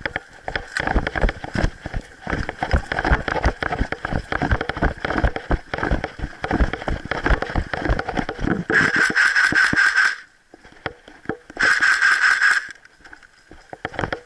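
Irregular knocks, rustling and handling noise, as from a player moving through brush. They are followed by two bursts of full-auto fire from an airsoft electric gun: one of about a second and a half past the midpoint, and a shorter one a second later.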